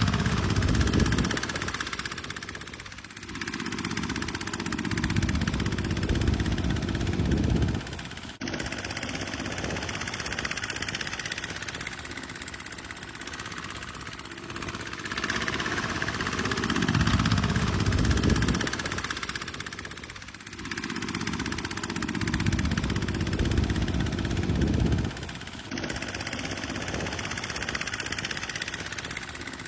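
Tractor engine working steadily, growing louder and easing off by turns. It breaks off abruptly twice, about eight seconds in and near the end.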